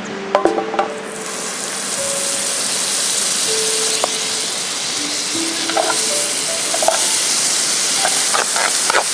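Food sizzling as it fries in a pan over a wood fire. The sizzle swells up about a second in and then holds steady, with a few light clinks of a utensil near the start and near the end.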